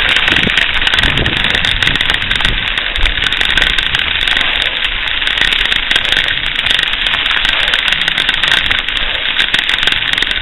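Rapid, dense rattling with wind buffeting from a camera riding on a moving bicycle.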